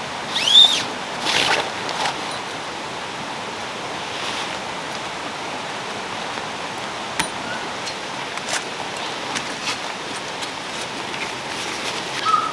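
Valley stream rushing steadily, with a short high squeal that rises and falls about half a second in, and a few faint clicks and knocks later on.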